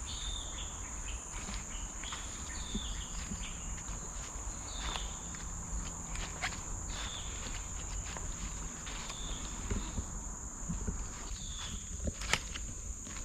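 Steady high-pitched insect drone of tropical forest, with short high chirps every second or two and scattered footsteps on the trail.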